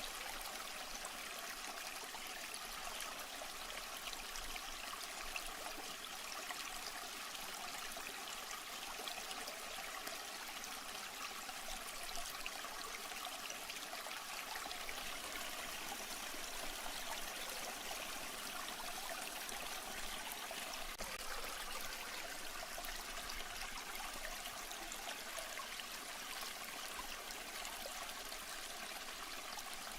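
Running water trickling steadily, an even, unbroken splashing hiss.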